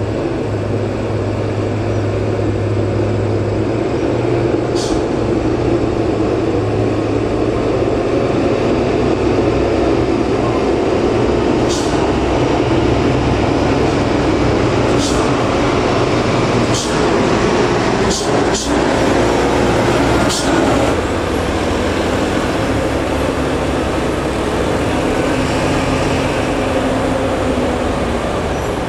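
Diesel engine of a Foton dump truck running at a steady pace, with a few sharp clicks scattered through it.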